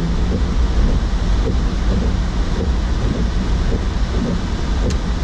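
Steady low rumble inside the cabin of a 2016 Mazda CX-9 AWD driving on a snow-covered road: tyre, road and drivetrain noise.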